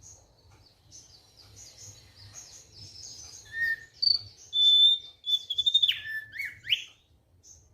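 A thick-billed heleia singing. Soft, high twittering gives way to louder, clear whistled phrases: a long steady note, then notes that step down in pitch and quick rising sweeps, which stop shortly before the end.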